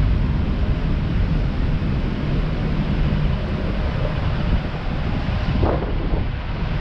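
Wind buffeting the microphone: a steady low rumbling noise over a wash of outdoor sound. A short faint rising sound comes near the end.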